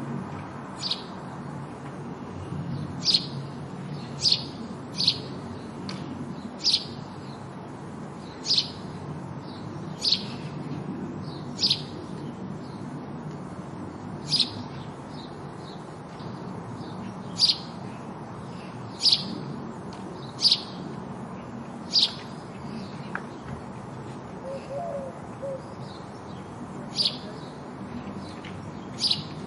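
House sparrow chirping: single sharp chirps repeated about every one to two seconds, over a steady low rumble in the background.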